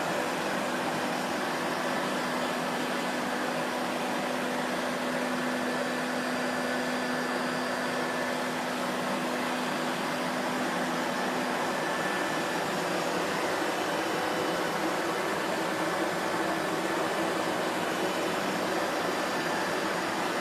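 Vacuum cleaner running steadily: an even noise of rushing air, with a faint low hum that fades out about halfway through.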